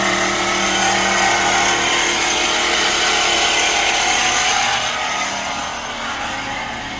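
Hyundai Accent's 1.4-litre G4LC DOHC 16-valve four-cylinder petrol engine idling steadily, a little quieter from about five seconds in.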